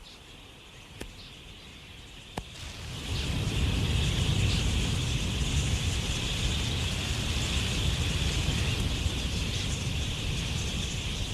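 Outdoor field ambience. About three seconds in, a steady high-pitched chorus and a low, wind-like rumble rise and then hold.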